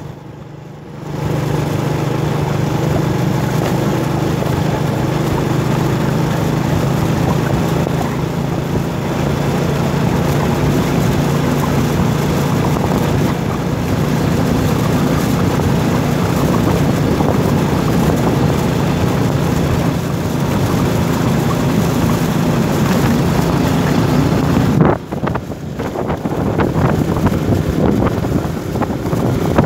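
A vehicle's engine running at a steady speed with wind noise on the microphone. The engine hum cuts off abruptly near the end, leaving gusty wind noise.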